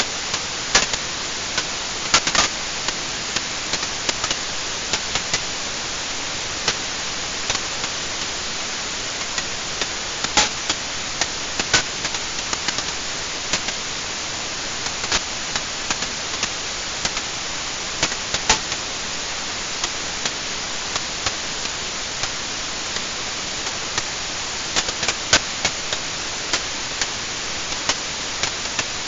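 Fire burning in a fireplace: a steady hiss with irregular sharp crackles and pops.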